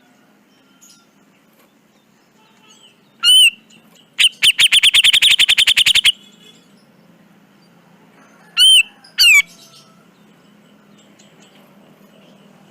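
Grey-cheeked bulbul (cucak jenggot) calling: one loud harsh call about three seconds in, then a fast rattling chatter of about ten notes a second lasting some two seconds, then two more loud calls in quick succession past the middle.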